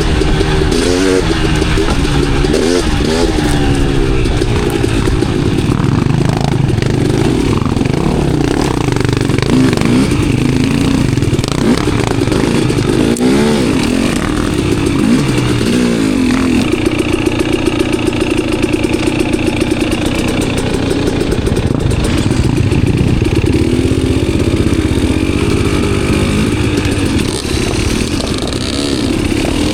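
Enduro dirt bike engine under way on a trail, revs constantly rising and falling as the throttle is worked. A short run at steady revs a little past halfway.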